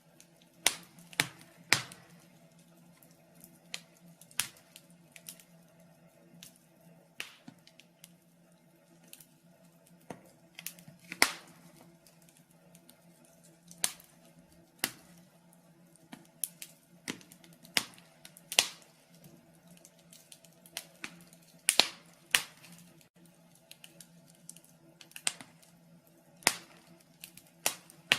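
Wood fire in a fireplace crackling, with irregular sharp pops and snaps about once or twice a second over a faint steady hum.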